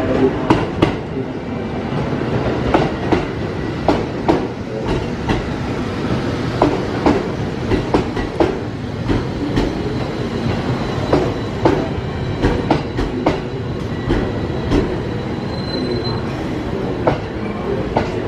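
Electric passenger train rolling through the station, its wheels clacking irregularly over rail joints and pointwork, with a faint wheel squeal.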